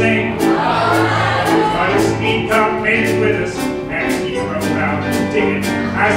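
Live country band playing an upbeat tune, with held bass notes and a steady drum beat about twice a second.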